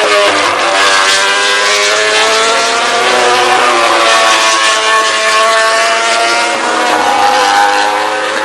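MotoGP 800cc four-stroke racing motorcycle engines on track, their pitch rising and falling as the riders accelerate, shift and brake.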